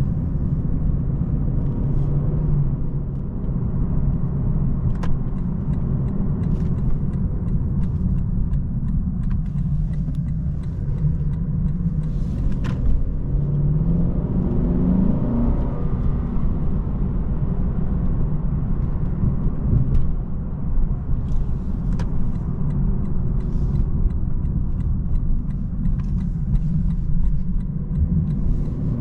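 Lexus LC500's naturally aspirated 5.0-litre V8 driving along, a steady low engine drone with road rumble. About halfway through the engine note rises briefly as it picks up, then settles again, with scattered light ticks throughout.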